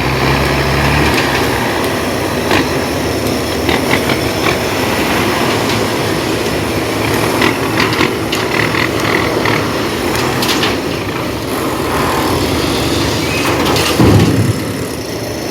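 Heavy dump trucks running on a construction site: steady engine and body noise with scattered knocks and rattles throughout, and a louder thump near the end.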